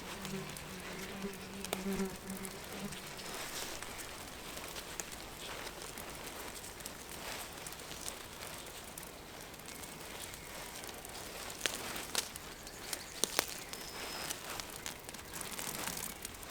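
A flying insect buzzing close by with a steady hum that stops about three seconds in, followed by soft outdoor background with scattered small clicks and cracks, a few sharper ones near the end.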